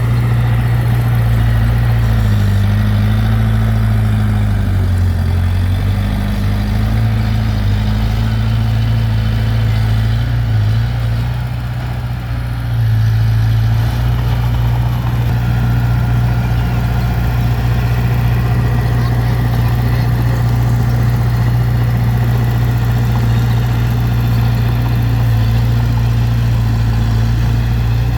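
Heavy construction-machine diesel engine running steadily under a working load. Its pitch drops briefly about five seconds in, and it eases off slightly around twelve seconds before picking back up.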